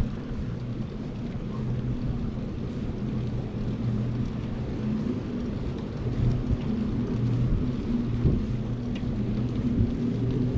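Wind buffeting a bike-mounted camera's microphone while cycling, a steady low rumble. A faint low hum runs under it.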